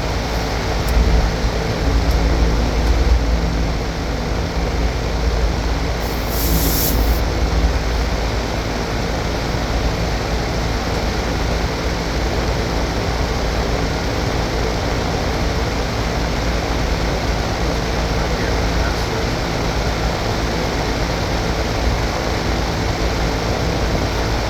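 Outdoor air-conditioning condensing unit running: a steady fan rush of air with a low rumble and a constant motor hum. A brief hiss cuts in about six seconds in.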